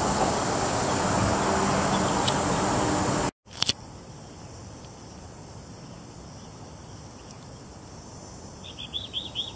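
A loud, steady noise for about the first three seconds stops abruptly, leaving quiet outdoor ambience with a faint high steady tone. Near the end a small bird gives a quick run of high chirps, about five a second.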